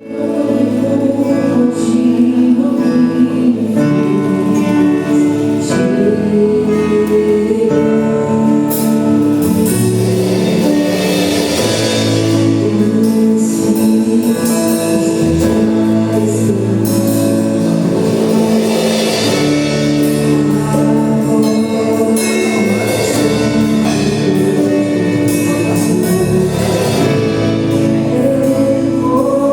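Gospel worship music: a praise band playing a medley, instruments with singing, fading in at the very start and then steady.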